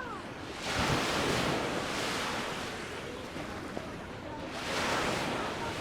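Sea waves breaking and washing up on a sandy beach, two surges about four seconds apart.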